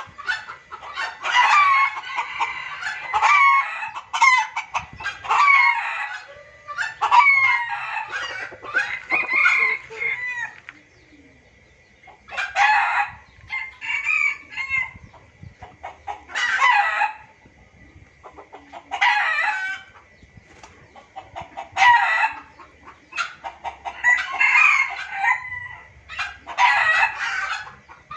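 Junglefowl crowing and clucking, a lure recording: calls come thick and overlapping for the first ten seconds, then single crows every two to three seconds, over a faint steady high tone.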